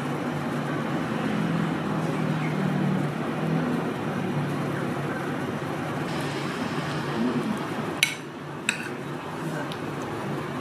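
Steady street background noise with traffic, and two sharp clinks of dishes or utensils about eight seconds in.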